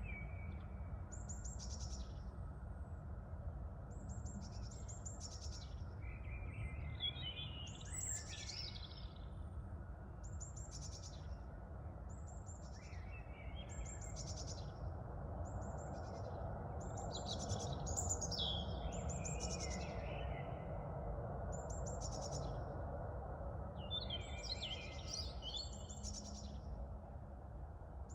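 Wind rumbling steadily at the microphone, swelling for a while around the middle. Over it a songbird repeats a short high phrase about once a second, with a few pauses.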